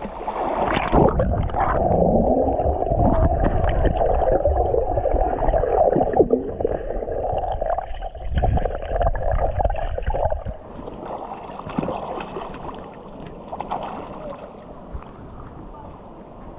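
Water gurgling and churning close to the microphone for about ten seconds, then dropping to a quieter wash.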